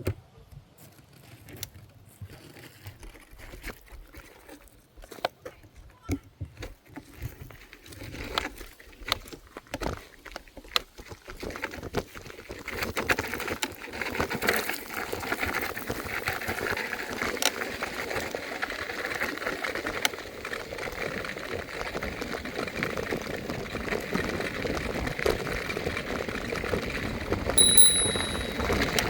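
Electric scooter ride: scattered clicks and knocks at first, then a steady rush of wind and tyre noise that builds a little under halfway through. Near the end comes a short, high-pitched beep.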